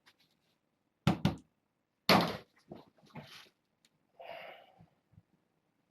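A few sharp knocks and thuds in a small room: two close together about a second in, the loudest about two seconds in, then lighter knocks and a brief rustling scrape a little past four seconds.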